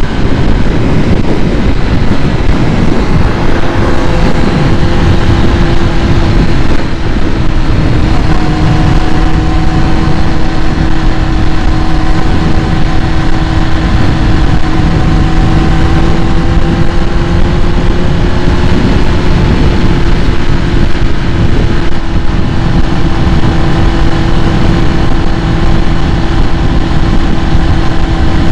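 2001 Kawasaki ZX-6R's carbureted inline-four idling steadily as it warms up after a cold start. Its steady tone dips slightly in pitch a few seconds in.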